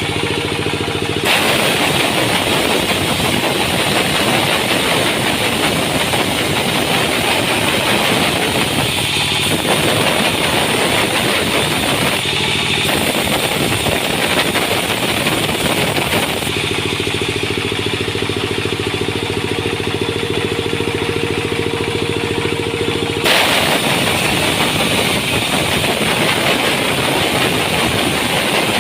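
Sawmill engine running steadily, with long stretches of loud, rough cutting noise from the saw blade going through wood. The cutting starts about a second in, stops for several seconds about two-thirds of the way through, then starts again.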